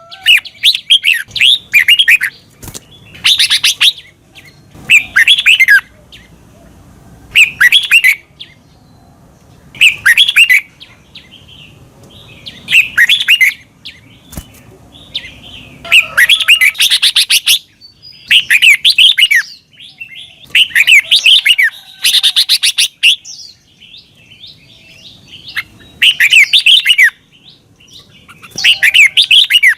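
Red-whiskered bulbul singing loud, short phrases of quick whistled, warbling notes, about a dozen phrases each lasting around a second, with short pauses between them.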